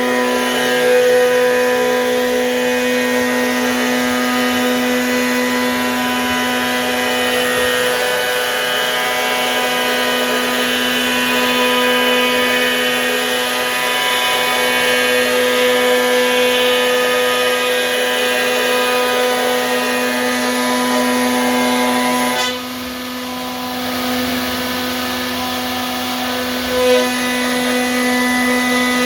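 CNC router spindle running with a steady high whine while cutting wood. About three-quarters of the way through it goes quieter for a few seconds, then comes back to full level.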